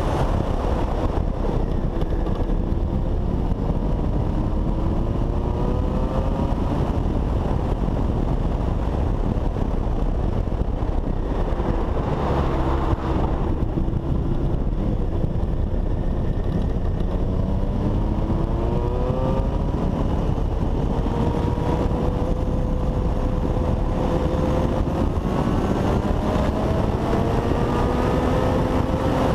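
Honda CBX 750 motorcycle's inline-four engine pulling hard through the gears, its pitch rising again and again with drops at each shift, under a heavy rumble of wind over the microphone.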